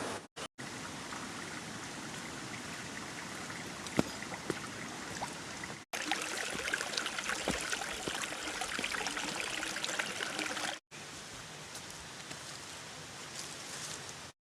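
Rain falling steadily, with a denser patter of drops in the middle few seconds. The sound drops out briefly a few times between cuts.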